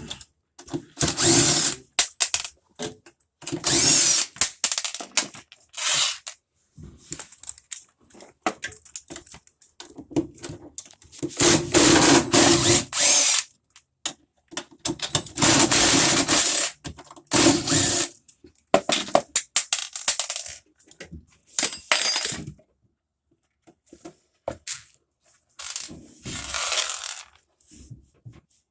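Power drill driving screws or bolts out of a washer in a series of about ten short runs, each lasting up to two seconds, with pauses between them as it moves from one fastener to the next.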